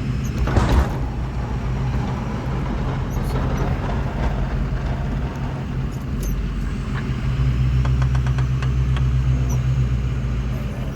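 Snowplow truck's engine running steadily with a low hum during plowing, pulling a little harder from about seven seconds in. A short rushing burst sounds about half a second in.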